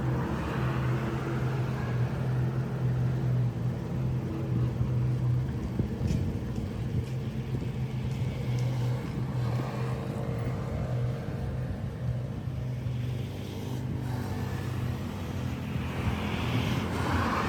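An engine or motor running steadily at an even, low hum, with a few faint clicks.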